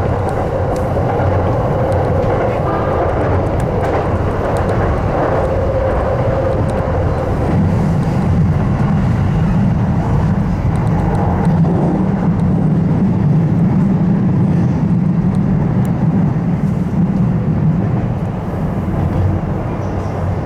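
Electric commuter train running along the line, heard from inside the leading car: a steady rumble of wheels on rails and running gear, its low rumble growing louder about seven seconds in.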